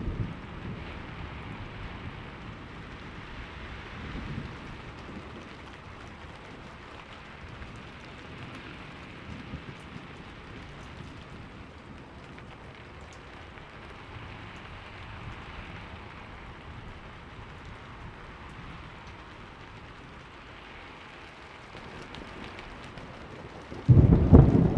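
Steady rain falling, with faint distant rumbles of thunder. Near the end a loud, close clap of thunder breaks in and rolls on.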